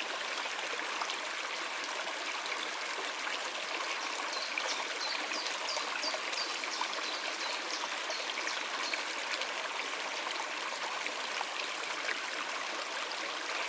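Small mountain stream and waterfall running steadily over rocks. About four and a half seconds in, a bird gives a quick series of high, repeated chirps lasting about two seconds.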